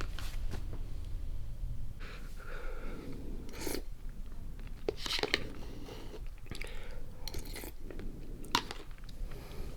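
A person eating instant pot noodles: irregular chewing and mouth sounds, close to the microphone.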